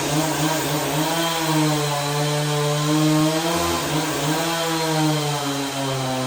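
Petrol chainsaw running at high speed through wood, its pitch sagging and recovering a little as it cuts.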